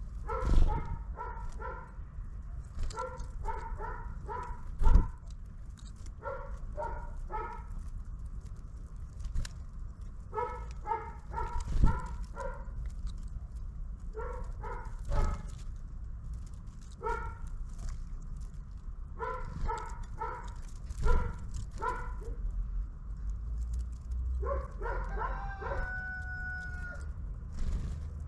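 A dog barking repeatedly in quick runs of three to five barks, with a drawn-out whine near the end. Several sharp knocks stand out louder than the barks.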